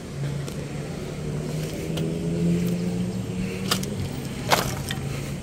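An engine running steadily, its pitch rising a little about two seconds in and then easing back, with two sharp knocks near the end.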